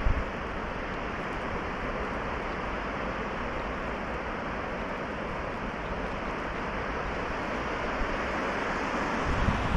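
River water rushing steadily. Brief low buffets of wind on the microphone come at the very start and again near the end.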